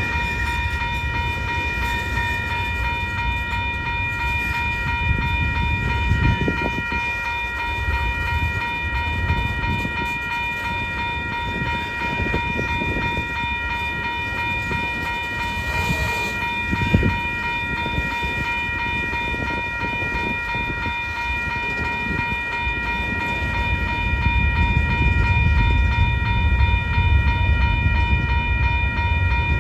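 Freight train rolling past, its cars rumbling with scattered clanks and knocks, the rumble swelling near the end. A steady high-pitched ringing, several tones held together, runs over it.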